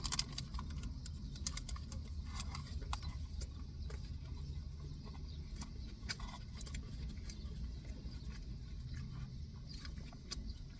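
Quiet eating of a wrap that has crushed chips inside: small scattered crunches and mouth clicks over a low steady hum.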